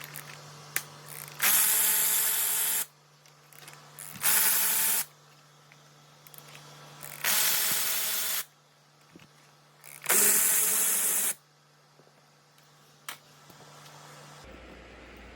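A power tool run in four bursts of about a second each, each a loud hissing rush with a steady whine in it, as used to take bolts off an engine during teardown.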